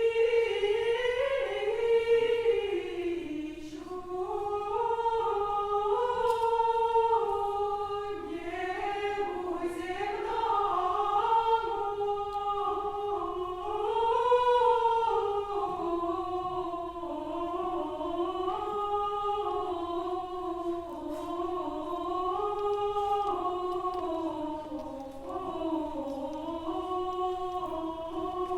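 A cappella choir singing old Russian vocal music in unison: one slow melody that moves in small steps, with long held notes and swells in loudness.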